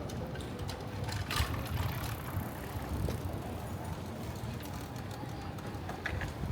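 City street ambience: a steady low rumble of passing traffic, with a single sharp click about a second and a half in.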